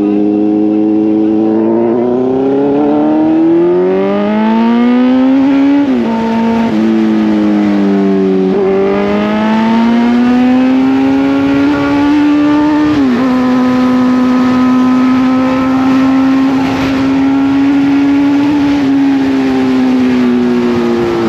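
Kawasaki Z900 inline-four engine pulling hard under acceleration, its pitch climbing through the revs and dropping sharply at three upshifts, then holding fairly steady at cruising speed.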